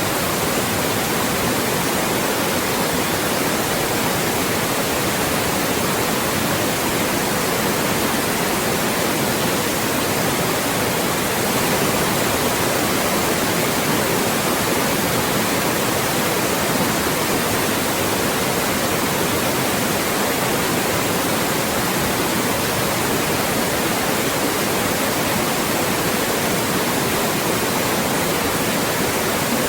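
Loud, steady white noise: an even, unbroken hiss across all pitches, used as a speech blocker to mask voices.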